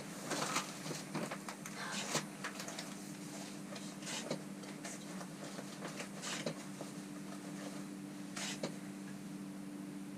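A low steady hum with scattered faint clicks and rustles, most of them in the first two seconds.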